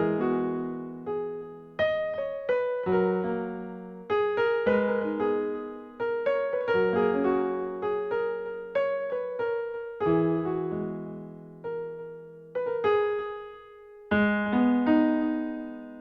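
Background music of a solo piano playing a slow, gentle melody of struck notes that ring and fade.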